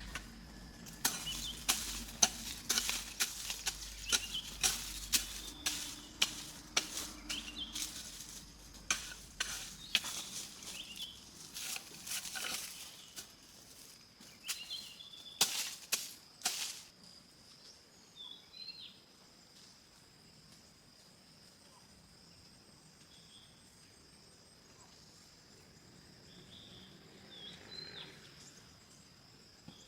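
A long run of sharp, irregular knocks and clicks for about the first seventeen seconds, then a quieter stretch with a few short bird chirps over a faint steady high whine.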